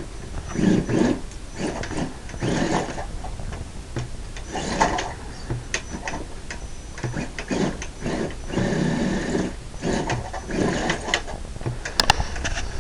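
Radio-controlled rock crawler's electric motor and gearbox whirring in repeated short bursts as the throttle is blipped on and off, with a few sharp clicks near the end.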